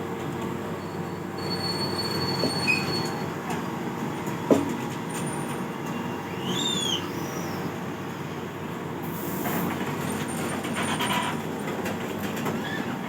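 Train running on the rails with a steady rumble and brief high-pitched wheel squeals. There is a single sharp clank about four and a half seconds in.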